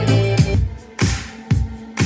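Electronic dance music playing through a Panasonic SA-PM19 stereo system. A sustained bass line with kick drum drops out about half a second in, leaving a kick drum hitting about twice a second with rising swells of hiss between the beats.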